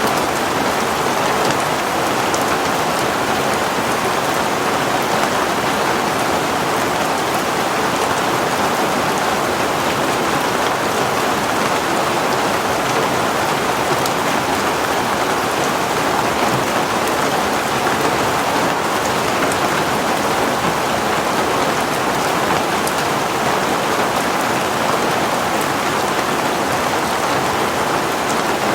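Heavy rain falling steadily on a surface, an even hiss of drops with no letup.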